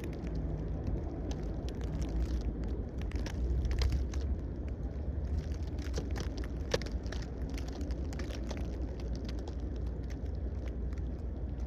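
Blizzard wind rumbling on the microphone, with many small clicks and crackles scattered through it.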